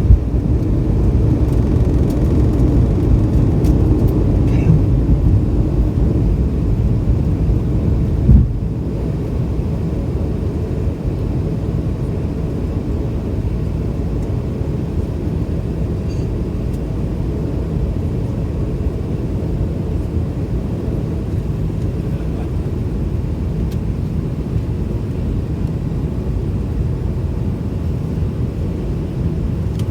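Cabin noise of a McDonnell Douglas MD-90-30 at takeoff power, its rear-mounted IAE V2500 turbofans running steadily with a heavy rolling rumble. About eight seconds in there is a thump, and the rough rumble gives way to smoother, slightly quieter engine noise, as when the wheels leave the runway.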